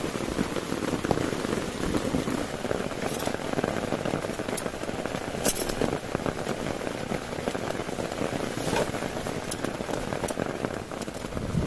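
Heavy rain pattering on a tent: a dense, steady crackle of drops with a few sharper taps scattered through it.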